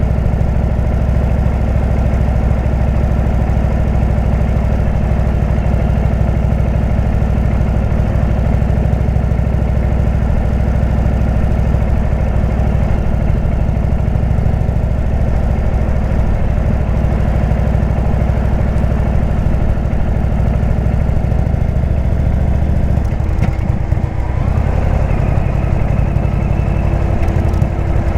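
Indian V-twin motorcycle engine running through a Jekill & Hyde exhaust, a steady low rumble. About 24 seconds in, the sound dips briefly and changes character, with a new steady tone appearing.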